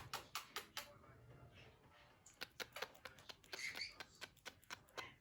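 Faint sharp clicks and taps: a few near the start, then a quicker irregular run of them from about halfway through.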